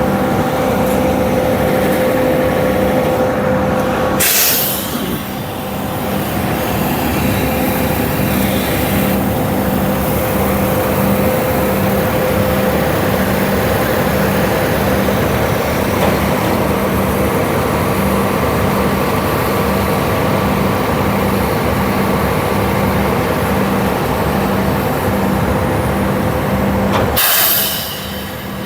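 Heavy diesel engine of a concrete mixer truck running steadily with a regular pulsing drone. A short sharp hiss of released air comes about four seconds in and again near the end.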